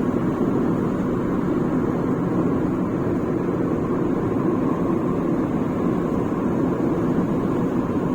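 Steady road noise inside a moving car: tyres on the highway and the engine's low hum, at an even level.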